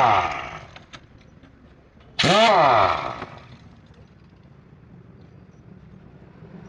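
Impact wrench run in two short bursts on the truck's wheel-hub nuts, each about a second long, its pitch rising as it spins up and falling as it stops; the second comes about two seconds in.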